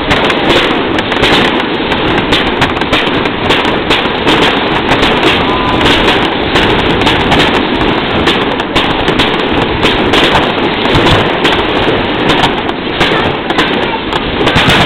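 Aerial fireworks display: a dense, unbroken run of bangs and crackling bursts, many shells going off in quick succession.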